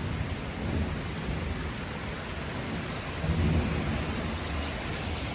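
Heavy thunderstorm rain falling steadily, with a low rumble of thunder that swells about three seconds in.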